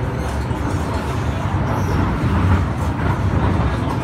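Hong Kong MTR M-Train electric multiple unit running at speed, heard from inside the carriage: a steady, deep rumble of wheels on the rails and running gear.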